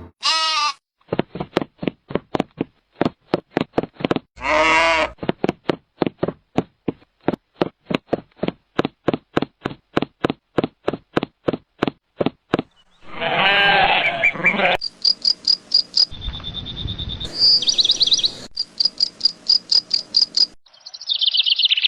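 Bleating livestock, with longer wavering calls twice and a quick run of short repeated calls between them, followed by high bird-like chirping over the last several seconds.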